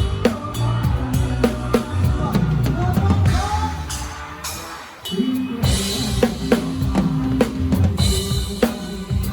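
A live band playing, with the drum kit up front: kick drum and snare hits over bass and other instruments. About halfway through the music briefly drops away, then the full band comes back in.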